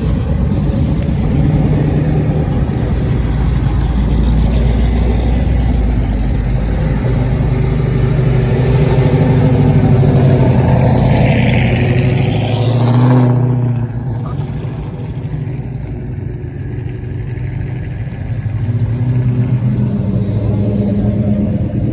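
Car engines running, with one vehicle growing louder and passing close by, then dropping away about thirteen seconds in; a lower engine sound carries on after it.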